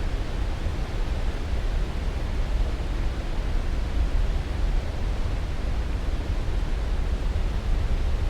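Steady white-noise sleep track: an even rushing hiss that is heaviest in the deep low end and does not change.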